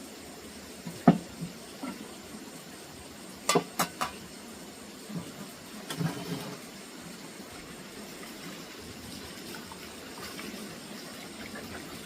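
Scattered light knocks and clicks at irregular intervals, a few in quick succession, over a steady background hiss, like objects being handled and set down.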